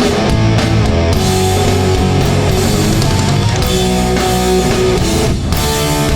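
Hardcore punk band playing live at full volume: distorted electric guitars, bass and drum kit.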